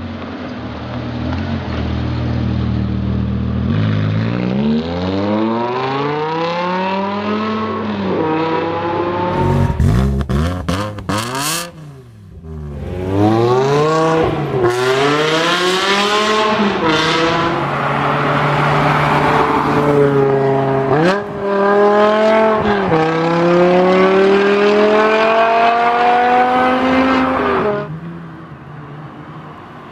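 V10 sports car engine accelerating hard through the gears: the revs climb steeply and fall back at each upshift, several times over. A cluster of sharp cracks sounds about ten seconds in, and the engine drops to a much quieter sound near the end.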